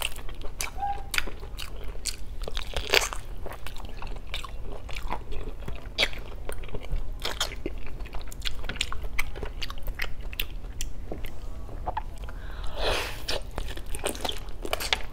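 Close-miked eating of boiled pork trotter (pork pata): biting into the soft skin and chewing, with a steady stream of wet mouth clicks and smacks.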